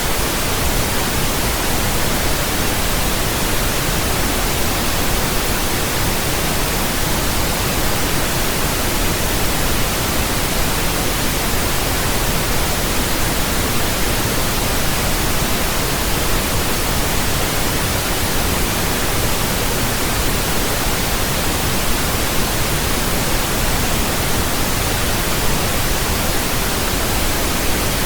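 Steady, continuous pink noise: an even hiss with a deeper rumble beneath it, unchanging throughout.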